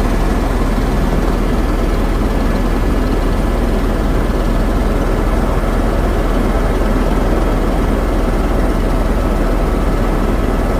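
Helicopter in steady flight: a loud, unbroken drone of engine and rotor with a constant low hum.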